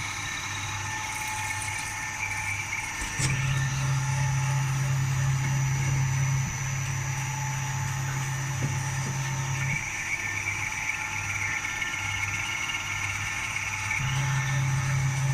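CNC milling machine running: a steady high whine throughout, with a lower steady hum that cuts in about three seconds in, stops about ten seconds in and comes back near the end.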